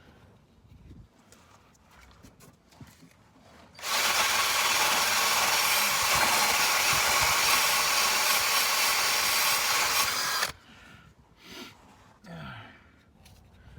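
Cordless drill running at speed, scrubbing surface rust off a car's underside. It starts about four seconds in, runs steadily for about six and a half seconds, then stops suddenly.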